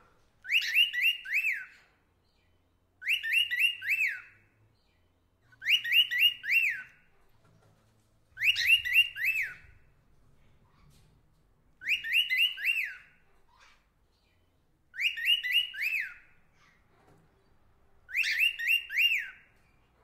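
A bird's call of four quick, high notes, repeated seven times at about three-second intervals, each repeat identical to the last, as a looped recording would be.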